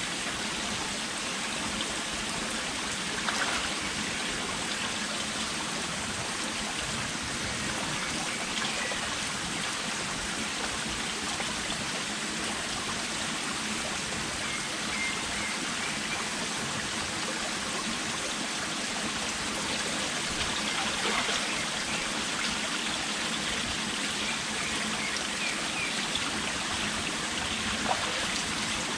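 Steady sound of running water, like a stream flowing over rocks, with a few faint short high chirps about halfway through and near the end.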